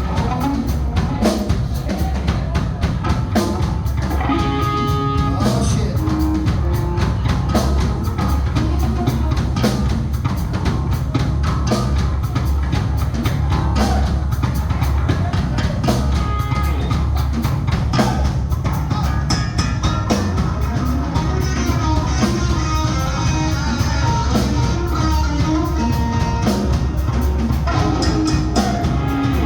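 Rock music played by a band, with a drum kit keeping a steady beat under guitar.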